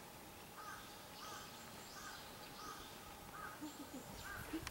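A bird calling faintly in a steady series, about six short calls of the same shape, evenly spaced, over a quiet outdoor background.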